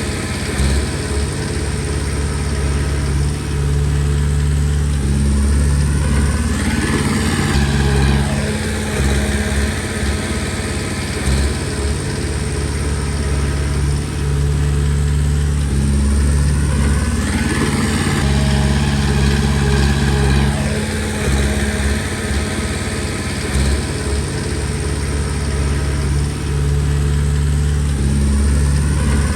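Komatsu D20P bulldozer's diesel engine running steadily under load, with a whine that rises and falls about every ten seconds as the machine works.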